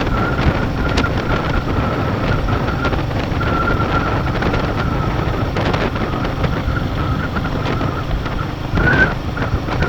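Motorcycle engine running at a steady cruising speed, with wind rumble on the microphone.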